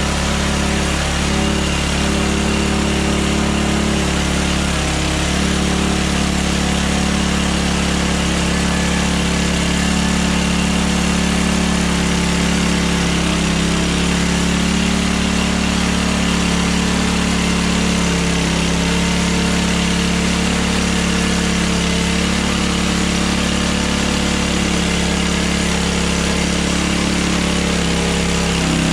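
Hudson Hunter band sawmill's engine running steadily, with small shifts in pitch as the load changes.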